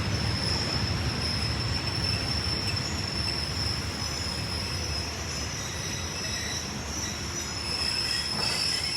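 Train running on the rails: a steady low rumble with a continuous high-pitched wheel squeal.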